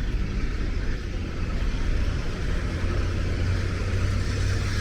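Diesel locomotive engines idling, a steady low drone.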